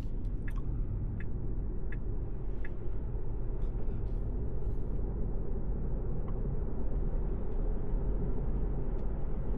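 Steady road and tyre noise heard inside the cabin of a moving Tesla Model 3, a low even rumble with no engine note. A few faint, evenly spaced ticks sound in the first few seconds.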